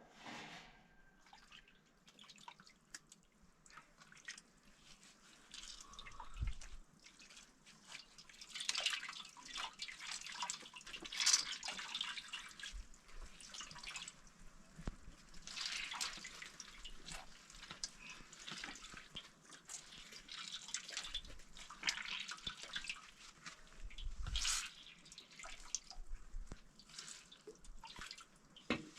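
Water splashing and dripping in irregular bursts, stronger at times.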